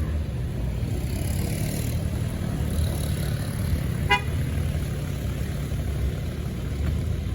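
Road traffic with a steady low engine rumble from vehicles passing or waiting, and one short vehicle horn toot about four seconds in.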